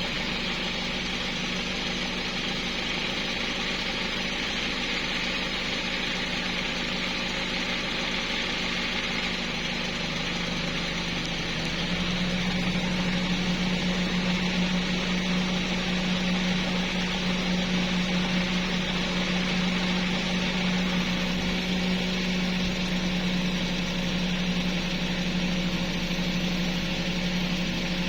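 An engine running steadily at a constant speed with an even hum. About twelve seconds in it picks up slightly in pitch and gets a little louder, then holds steady.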